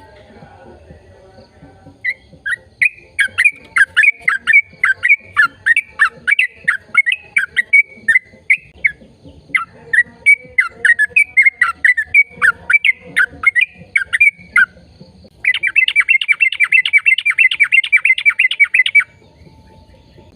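Bird chirping: rapid, loud chirps repeated in two long runs, then a faster steady trill of about three and a half seconds that cuts off suddenly.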